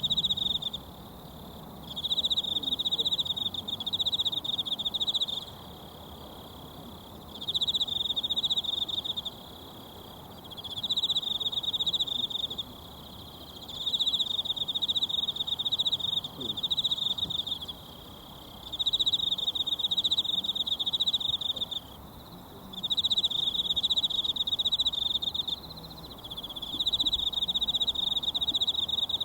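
An insect trilling at a high, steady pitch in repeated phrases of two to three seconds, with pauses of about a second between them. Under it runs the steady hiss of a mountain stream.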